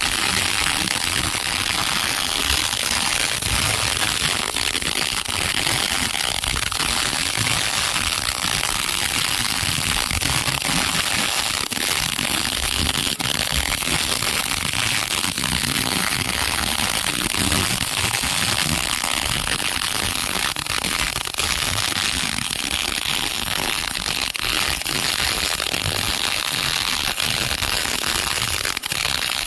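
MIG welding arc crackling and sputtering steadily and without a break, a dense run of rapid small pops.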